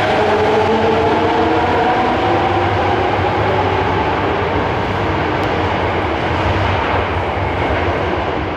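Subway train moving through an underground station platform: a steady rumble of wheels on rail with a motor whine whose pitch drifts slightly downward over the first few seconds.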